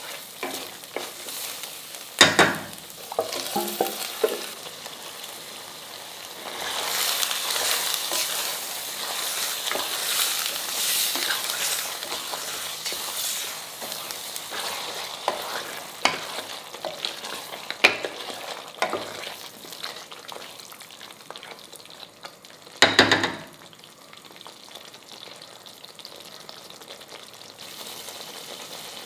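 Food sizzling as it fries in a pot while it is stirred with a metal spoon, with scraping and light clicks of the spoon throughout. Two loud brief clatters of spoon on pot, one near the start and one late on; the sizzle is loudest in the middle stretch.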